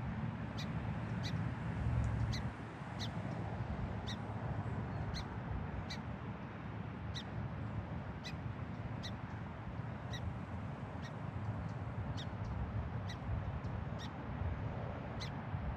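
Song sparrow giving sharp, evenly repeated call notes, about two a second, the alarm calls of a bird agitated by a person close by, over a steady low rumble.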